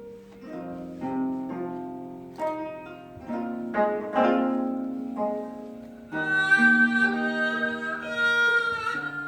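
Haegeum and gayageum duet: the gayageum plays a melody of plucked notes that strike and fade, and about six seconds in the haegeum comes in with a held, bowed melody line above it.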